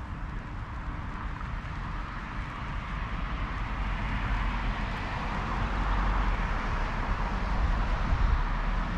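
Street traffic: a motor vehicle's engine and tyres, growing steadily louder.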